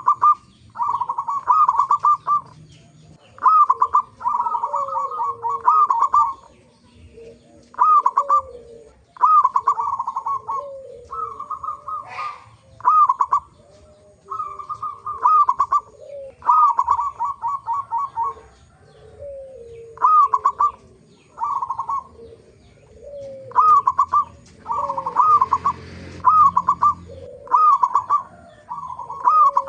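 Zebra doves (perkutut) cooing: short, bubbly trilled phrases repeated every second or two, with softer falling notes beneath them.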